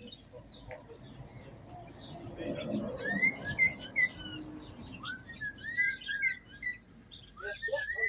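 Small birds chirping and twittering: many short, quick chirps in close succession, starting about two and a half seconds in and coming thickest in the second half.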